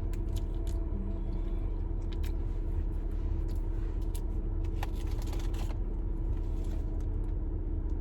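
Steady low rumble of a car idling, heard inside the cabin. Over it come scattered small crinkles and clicks of food packaging being handled, a few stronger ones about five seconds in.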